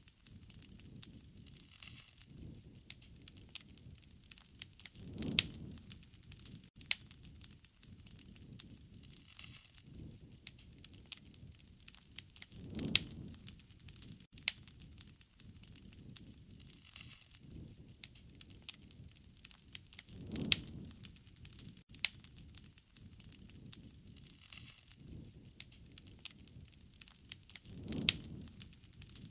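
Wood fire burning and crackling, with frequent sharp pops. A low rushing swell comes about every seven and a half seconds.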